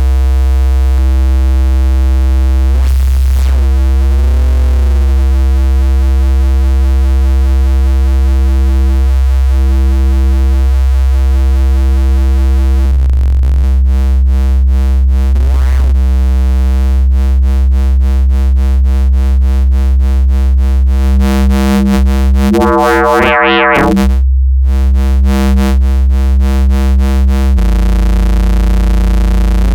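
A Bitwig Polygrid FM bass synth patch holding one deep, buzzy note with a thick stack of overtones while its sound is reshaped. Its tone sweeps down and up a few seconds in and again around the middle, then takes on a fast wobbling modulation, brightens into a harsh swell with a brief drop-out, and shifts to a different bass note near the end.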